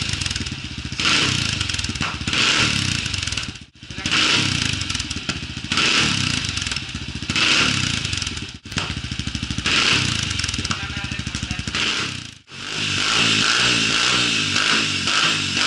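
Yamaha XTZ 250's single-cylinder four-stroke engine breathing through an FMF Racing and TJC full-system aftermarket exhaust. It is revved again and again, rising and falling between a bubbling idle and sharp blips, with a few abrupt cuts between takes.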